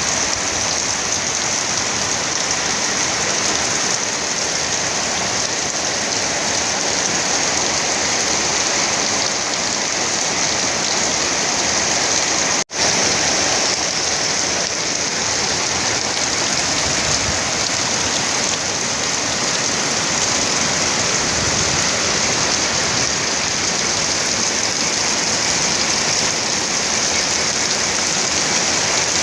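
Heavy rain falling steadily, a dense even hiss of rain on surfaces, broken only by a momentary gap about halfway through.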